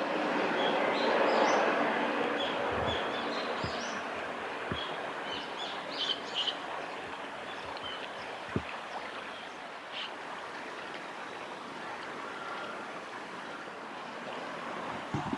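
A steady rush of flowing river water, with short high bird calls scattered through the first half and a few brief low thumps.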